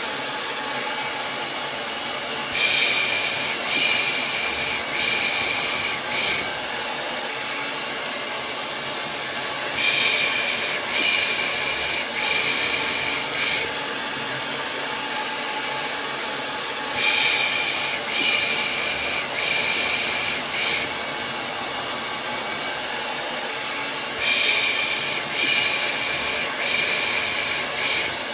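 Hair dryer running steadily, with a person's soothing 'pış pış' shush laid over it in sets of four, about a second apart, repeating every seven seconds or so. This is white noise for lulling a baby to sleep.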